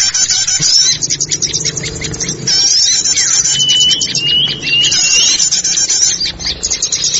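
Small forest songbirds chirping and trilling rapidly in a dense, unbroken chorus of high calls. About halfway through comes a run of four short rising whistles. It is a lure recording for attracting small wild birds.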